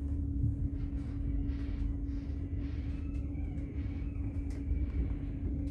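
Steady low rumble inside a regional express train carriage, with a constant hum running through it and a faint high whine coming in about halfway through.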